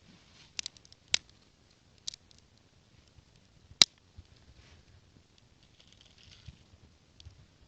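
Dry kindling twigs cracking: a few sharp, irregular snaps, the loudest about four seconds in, with faint rustling between them.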